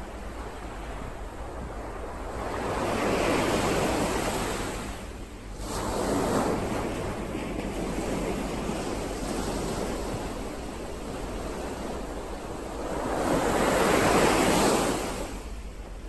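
Ocean waves surging in and washing back: one swell about three seconds in, a longer one through the middle, and the loudest near the end, over a steady low rumble.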